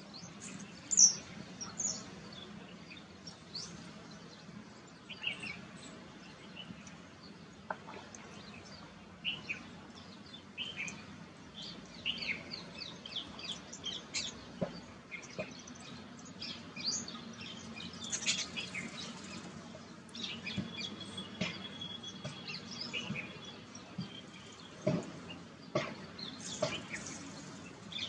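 Small birds chirping, with many short high calls scattered throughout, over a low steady hum.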